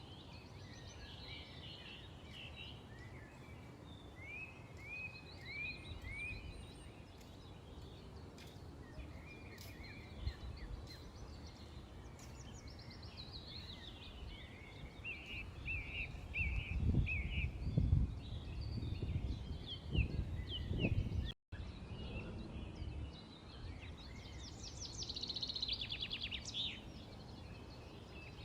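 Several small birds chirping and calling, with short rising and falling notes and a fast rattling trill near the end. An irregular low rumble runs under them in the middle stretch, and the sound cuts out for a split second about three quarters through.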